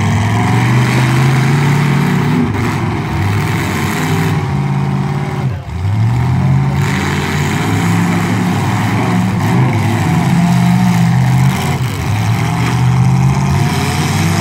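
Demolition-derby truck engines revving hard, their pitch rising and falling again and again as the trucks accelerate and back off, with a brief dip about five and a half seconds in.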